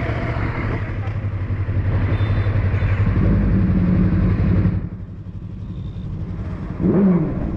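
Motorcycle engine running while riding, with wind rush over the microphone; the engine note steps up about three seconds in, then the throttle closes just before five seconds and it drops to a quieter run.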